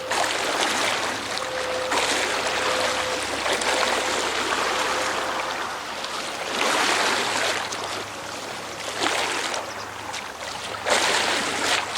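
Water rushing and splashing in repeated surges, loudest near the start, at about two seconds, midway and near the end, over the faint steady hum of a salvage work boat's engine.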